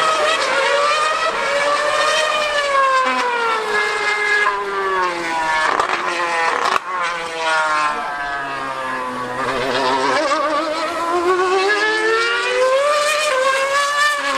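2013 Formula One car's V8 engine screaming at high revs, its pitch sweeping down over several seconds through a few gear changes, then climbing again near the end as it accelerates.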